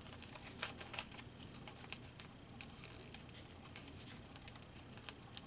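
Paper cut-outs being handled on a collage page: small, irregular clicks and light rustles of paper.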